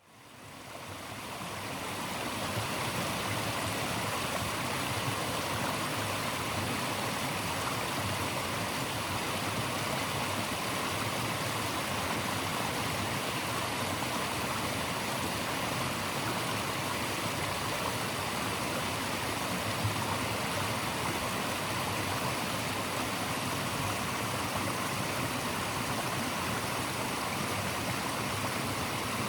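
Steady rush of running water, a natural white noise, fading in over the first two seconds and then holding even.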